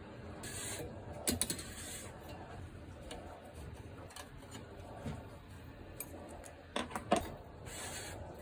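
Parts of a Coleman 508A gasoline camp stove being handled and taken apart, with small metal clicks and clinks: a cluster about a second in, another near seven seconds, and a few brief scraping sounds between them.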